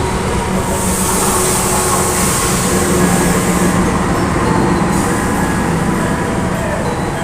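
Passenger train in the station, a steady low hum under dense rumbling noise, with a loud high hiss from about a second in that lasts some three seconds.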